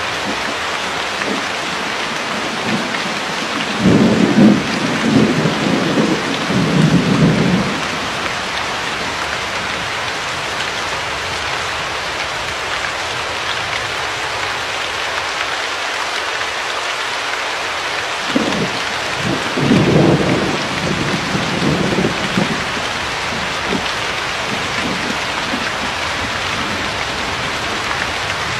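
Steady heavy rain, with low rolls of thunder rumbling through it twice: about four seconds in and again after about eighteen seconds.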